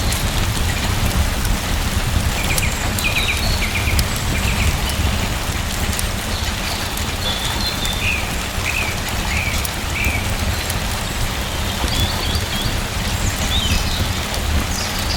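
Steady rain falling, with a deep low rumble under the patter. Short high chirps come and go through the middle.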